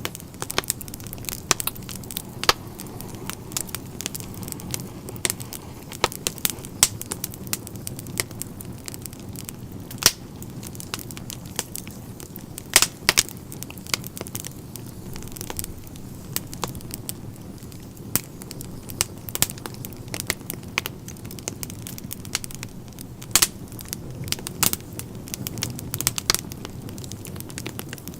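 Wood fire crackling and popping: irregular sharp snaps over a low steady rumble of the burning fire, with a few louder pops about thirteen and twenty-three seconds in.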